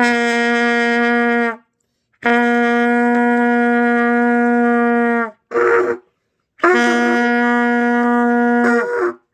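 Trumpet playing the low open C (written Do, no valves pressed) as three long held notes, each sagging slightly in pitch as it ends.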